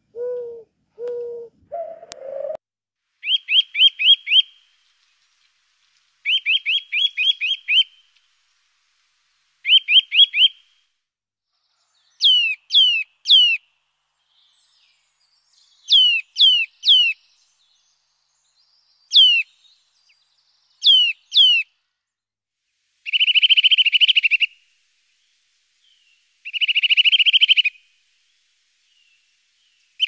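A dove cooing a few low notes, then a songbird singing: short high phrases repeated with pauses between, first quick runs of notes, then groups of downward-sliding whistles, then buzzy trills.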